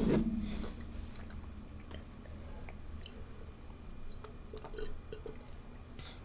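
Chewing food close to the microphone, with scattered soft mouth clicks and smacks.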